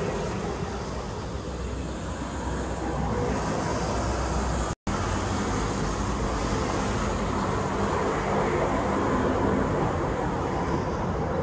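Passing-train noise broken by an abrupt cut a little under halfway. First the tail of a KIHA 183 diesel railcar excursion train running past, then an SRT Light Red Line electric commuter train approaching and running by, its noise slowly building toward the end.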